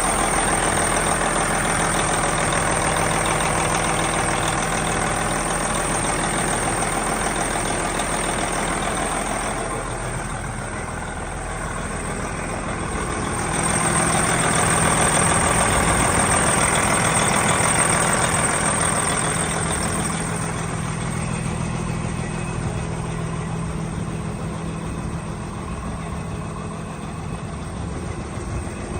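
Diesel engine of a 2007 Kenworth tandem-axle truck idling steadily. It swells louder twice, early and again about halfway through, and is quieter toward the end.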